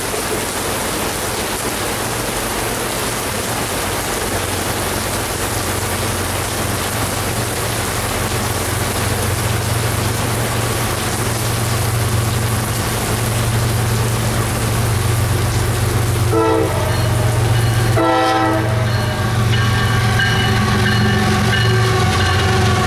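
Heavy rain pouring down while CSX diesel locomotives approach, their low rumble growing slowly louder. Near the end the lead locomotive's air horn sounds twice, a short blast then a longer one.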